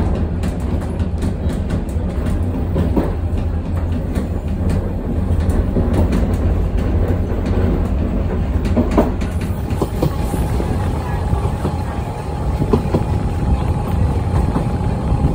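Narrow-gauge train carriage running along the track: a steady low rumble with irregular clicks and knocks of the wheels on the rails, and a faint steady whine that comes in about two-thirds of the way through.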